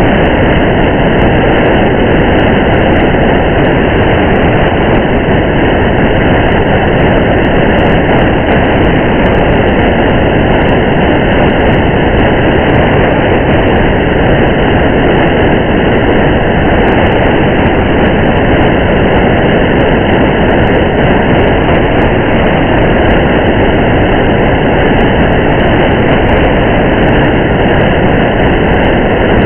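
Steady, loud rush of rain and road rumble from a car driving through rain, unchanging throughout.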